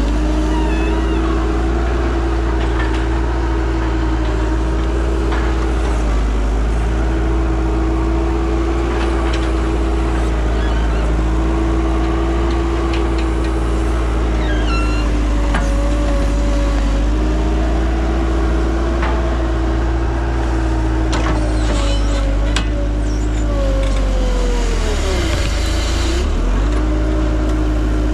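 Bobcat 873 skid steer's diesel engine running steadily under work, with a whining tone that sags and recovers several times as the load changes, dipping deepest near the end.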